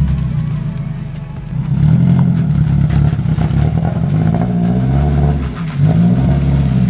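Nissan 240SX S14's engine revving, its pitch climbing and dropping about three times.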